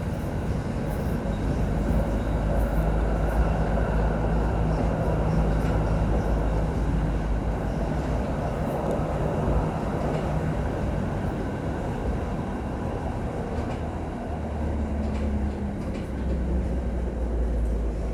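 Steady rumble and rattle of a moving vehicle, easing slightly near the end.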